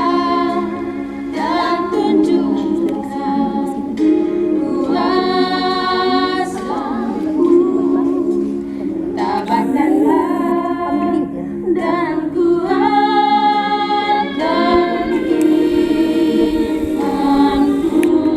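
Choir of nuns singing a hymn in phrases with long held notes, over a steady low tone.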